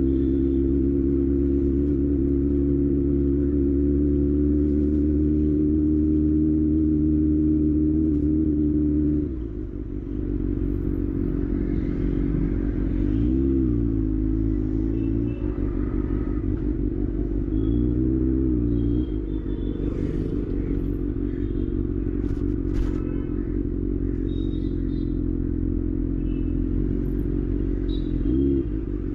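Kawasaki ZX-6R inline-four engine held at steady revs, then dropping back after about nine seconds. It runs on at lower revs with a few short rises and falls in pitch from the throttle, plus some light clatter.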